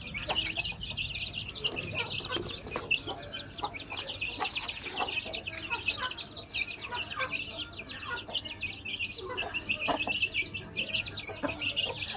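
A group of month-old chicks peeping continuously, many short high calls overlapping without a break.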